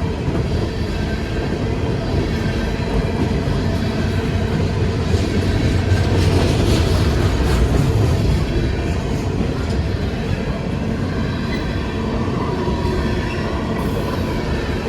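A train rolling past, with a steady heavy rumble of locomotive and rail cars on the track that swells to its loudest about six to eight seconds in.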